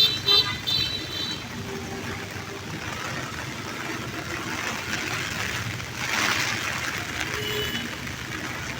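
Steady hiss of falling rain, growing louder for about a second around six seconds in, with a few short high chirps at the very start.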